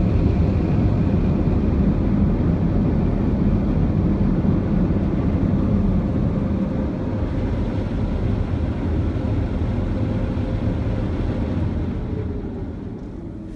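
Car wash air-dryer blowers running in a steady rush of air, heard from inside the car, fading away near the end.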